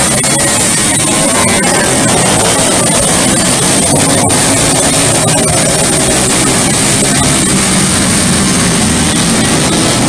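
Racing go-kart engines running loud and steady at high revs.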